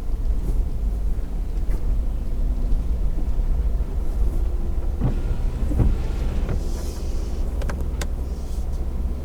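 A vehicle driving along a rough back road: a steady low rumble, with a few knocks and clicks from bumps about two-thirds of the way through.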